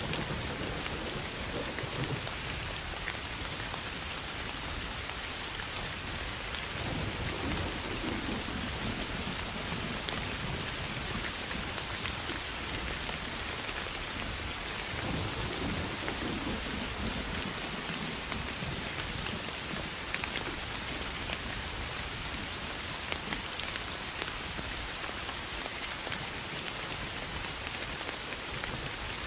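Steady soft rain falling on grass and rice fields, with low thunder rumbling three times: near the start, about seven seconds in and about fifteen seconds in.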